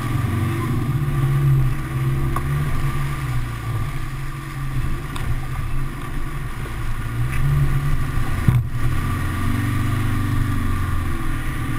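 A 4x4's engine running under load off-road, its pitch rising and falling as the throttle changes. A single sharp knock about eight and a half seconds in.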